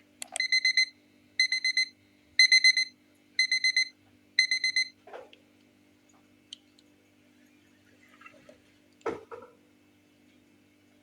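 An electronic alarm beeping: five bursts of four quick high beeps, one burst a second, then it stops. A soft knock follows, and a louder thump about nine seconds in.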